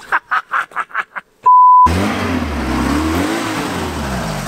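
A man laughing in quick short bursts, then a loud single-pitch bleep of about a third of a second. Then a VW Golf Mk2's engine running as the car pulls away, the revs rising and falling.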